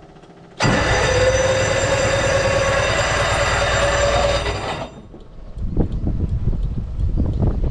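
Electric starter of a 1929 Bugatti Type 43 cranking the engine with the magneto off, a loud metallic grinding with a whine that rises slightly, for about four seconds before it cuts off suddenly. The grinding cry comes from the starter pinion on worn flywheel teeth. Irregular low knocks follow near the end.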